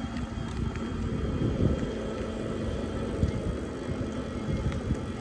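Steady low rumble of riding an e-bike: wind buffeting the microphone and tyres rolling on pavement, with a few faint clicks.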